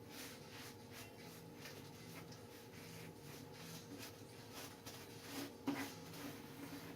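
Tissue paper being rubbed and smoothed down by hand onto a glue-coated surfboard deck: faint, soft rubbing strokes about twice a second, with one sharper stroke near the end.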